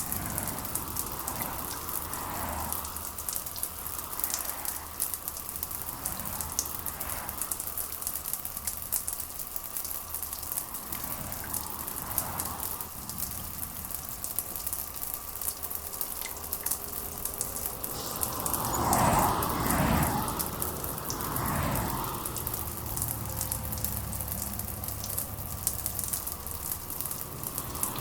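Steady rain falling, a constant hiss of drops, with soft swells every few seconds and a louder one about two-thirds of the way through.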